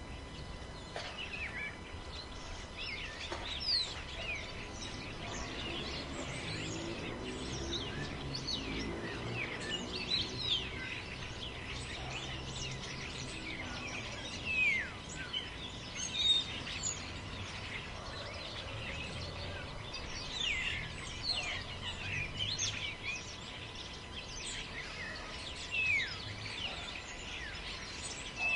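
Forest ambience: many birds chirping with short, quick, mostly falling calls, scattered all through, over a steady low rush of wind.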